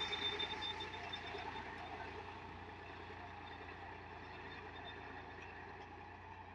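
Sonalika Tiger tractor's diesel engine running steadily, growing gradually fainter as it moves away.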